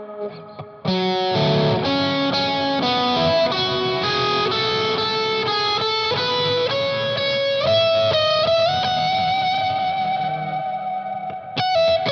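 Electric guitar through an EarthQuaker Devices Palisades overdrive pedal on Gain A with its boost on, with delay and reverb, playing a single-note lead line. A hard-picked note comes about a second in, then a run of changing notes, a note bent up and held from about two-thirds through, and a new picked note near the end.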